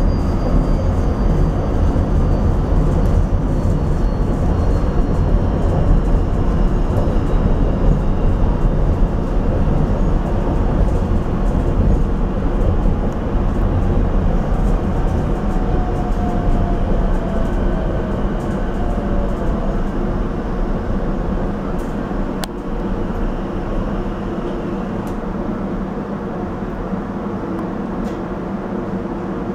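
Rotem Silverliner V electric commuter train running at speed, heard from inside the car: a steady loud rumble of wheels on rail, with faint high whines that slowly fall in pitch. A single sharp click sounds about two-thirds of the way through, and the rumble eases a little near the end.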